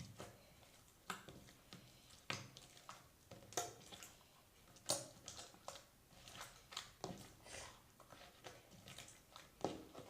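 Slime being kneaded and squeezed by hand, with a piece of clay slime being worked in: soft, irregular squishes and sticky pops, roughly one or two a second.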